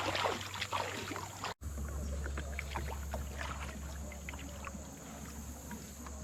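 Water splashing around a kayak, loudest right at the start, then light dripping and small clicks over a steady low rumble of wind on the microphone; the sound drops out sharply for an instant about a second and a half in.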